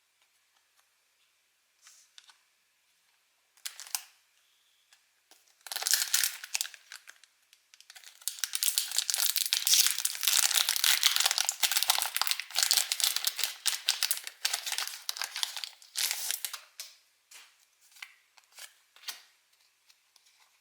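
Foil wrapper of a Pokémon TCG booster pack being torn open and crinkled: a short burst of crackle about a quarter of the way in, then several seconds of dense crinkling, tapering to scattered light clicks near the end.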